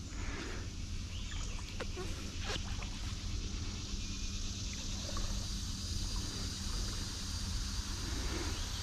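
Steady creek ambience: a low rumble with an even hiss of running water above it, and a few faint clicks and taps.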